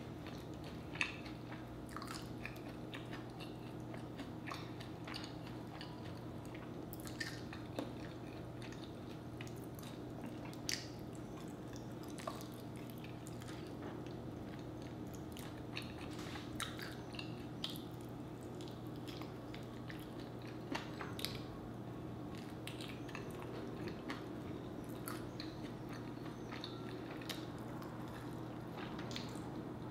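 A person biting into and chewing sauced fried chicken wings close to the microphone, with irregular wet clicks and smacks. A steady low hum runs underneath.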